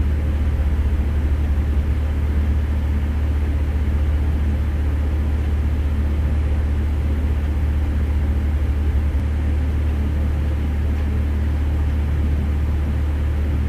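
Steady low drone of an engine running, an even hum with no change in pitch or level.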